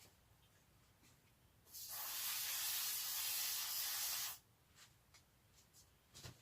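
WD-40 aerosol can spraying in one steady hiss of about two and a half seconds, starting near two seconds in and stopping cleanly.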